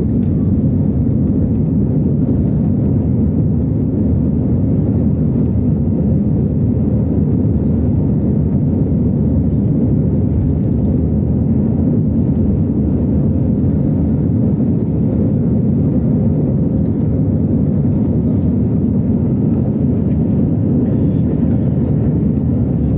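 Airbus A320 jet engines at takeoff thrust: a loud, steady low rumble with a faint hum, unchanging throughout.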